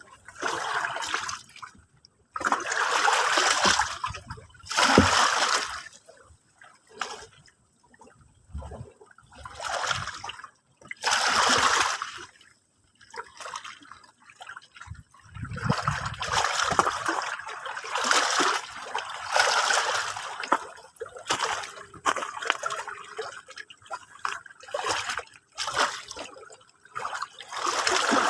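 Sea water washing and splashing in irregular surges, each a second or two long, with short quiet gaps between them.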